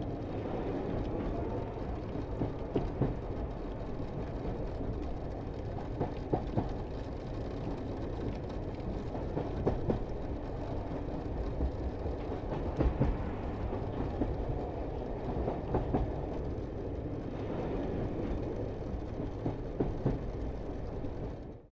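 Cog railway train running: a steady low rumble with scattered clicks and knocks. It cuts off suddenly near the end.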